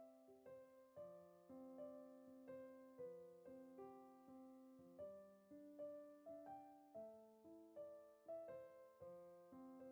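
Soft background piano music, notes struck about twice a second and left to ring in a slow, gentle melody.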